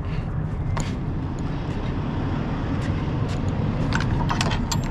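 Steady low rumble of an idling engine, with a few light clicks and knocks, several of them close together near the end.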